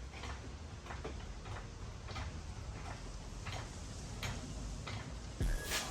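Slow, regular metallic clicking, about one click every two-thirds of a second, from a hand tool or lifting gear being worked during an engine removal. A couple of heavier clunks come near the end.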